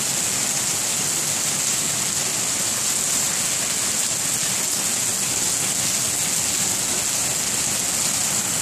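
Heavy thunderstorm rain falling steadily on pavement and lawns, a dense, even hiss.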